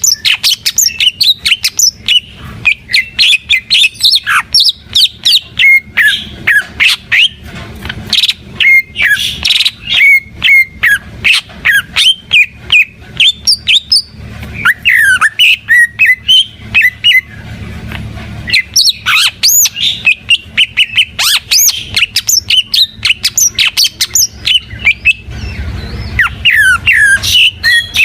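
Green leafbird (cucak ijo) in full, vigorous song: a fast, unbroken stream of short whistled notes, rising and falling glides and clicking chips, pausing only briefly twice.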